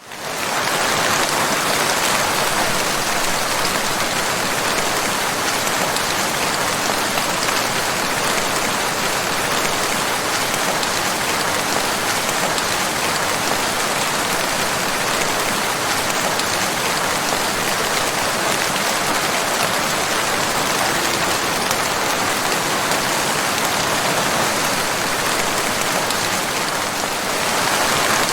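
Steady, even rain, fading in at the very start.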